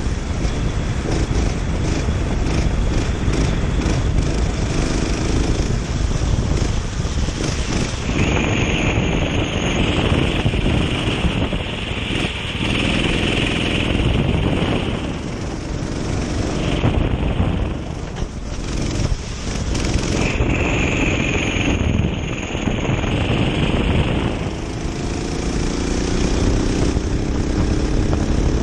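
Kart engine running at speed on a wet track, with wind buffeting the onboard microphone; the engine note dips and climbs through corners and rises steadily near the end as the kart accelerates.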